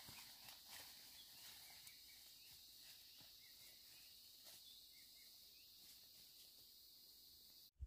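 Near silence: faint outdoor ambience with a steady high insect drone and scattered soft clicks and small chirps, cutting off abruptly just before the end.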